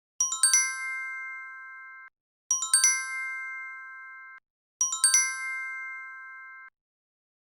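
Bright synthesized chime sound effect of the kind used for subtitle pop-ups, played three times. Each starts with a quick rising run of high twinkly notes, then holds a ringing chord that fades and cuts off after about two seconds.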